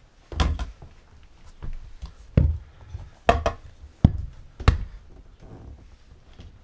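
A handful of separate knocks and thunks, about five over a few seconds, from handling the FMF aftermarket exhaust parts while picking them up to weigh them.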